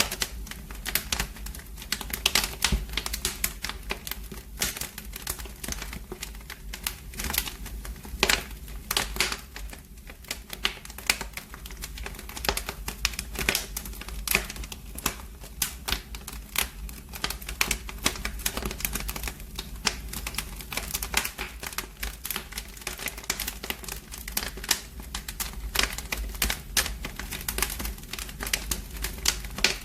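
Fire burning in a fireplace, crackling with dense, irregular pops and snaps over a steady low rumble.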